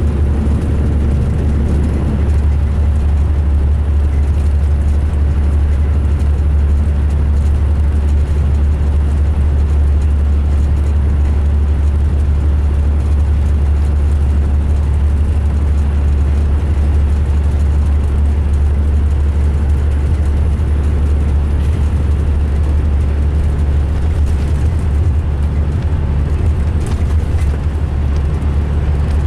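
A 2005 MCI D4500 coach's diesel engine running with a steady, heavy low rumble, a sound the uploader calls rough.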